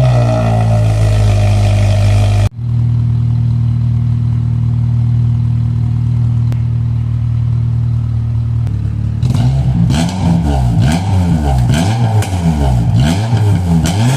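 Honda Accord engine running loud through an inexpensive eBay aftermarket exhaust. The engine speed first falls back toward idle and breaks off briefly about two and a half seconds in. It then idles steadily, and from about nine seconds on it is revved up and down repeatedly.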